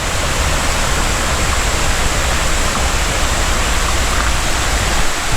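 Tinker's Creek rushing steadily over rocks and the remains of an old mill dam: an even, unbroken noise of white water.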